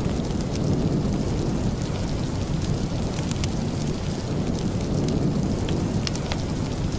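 Steady rain with a deep low rumble under it and scattered sharp ticks.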